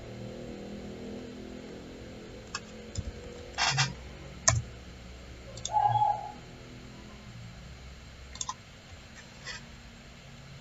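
Scattered computer mouse clicks over a low steady hum, with one short mid-pitched tone a little past the middle.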